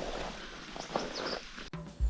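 A small stream trickling, with a few short high chirps about a second in. The sound cuts off abruptly near the end.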